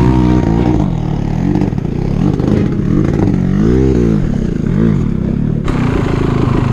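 Dirt bike engine revving up and down repeatedly as the throttle is opened and closed in bursts, with two strong swells about four and five seconds in. A hissing noise joins near the end.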